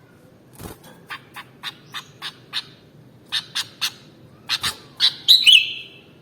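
Sooty-headed bulbul calling: a string of short, sharp notes in small groups with brief pauses, growing louder and ending in a longer gliding phrase near the end.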